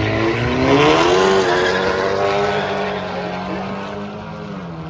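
Car engine at full throttle during a drag race, the note climbing through the first second or so, then holding and fading as the car pulls away down the strip.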